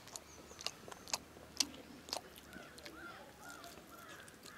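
People chewing and biting into pieces of pepper chicken curry held in their hands: a string of sharp mouth clicks and smacks, about five in the first two seconds, then quieter chewing.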